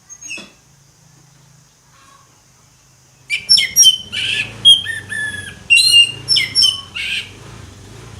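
Orange-headed thrush (anis merah) singing: a brief call at the start, then a few seconds later a loud, rapid run of varied whistled and harsh phrases that stops about a second before the end.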